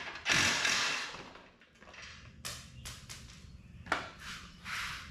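Handling noises from working on a UTV door: a loud scrape fading over about a second near the start, then a few sharp knocks and another short scrape near the end.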